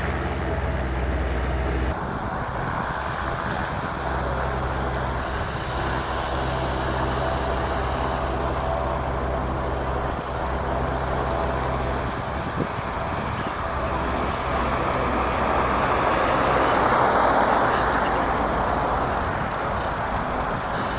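Helicopter rotor and engine hum with a steady low drone, changing abruptly about two seconds in, then the wash of a Westland Lynx helicopter approaching, swelling loudest about 16 to 18 seconds in.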